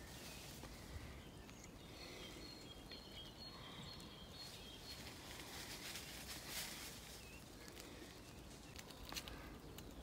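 Faint woodland ambience with birds calling: a few thin, high bird calls about two to four seconds in and a brief chirp later, over a low steady background hum of outdoor noise.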